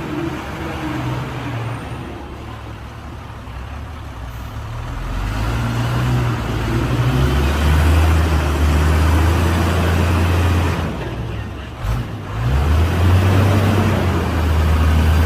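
Hyundai dump truck's diesel engine running, its low drone growing louder about a third of the way in, dropping briefly about three-quarters through, then rising again.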